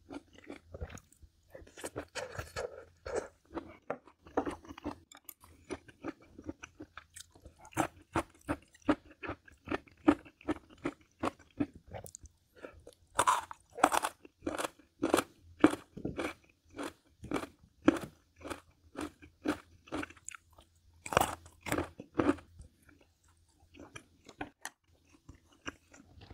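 A person chewing food close to the microphone: a steady run of crisp bites about two a second, loudest around the middle and again near the end.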